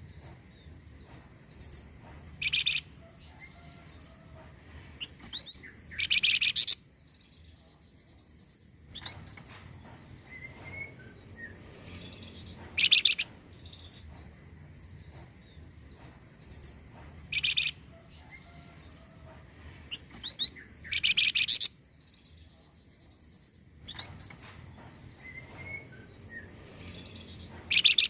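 Recorded Flamboyan bird song: short, loud, high-pitched call bursts with softer chirps between them, in a pattern that repeats about every seven or eight seconds, as a looped lure track.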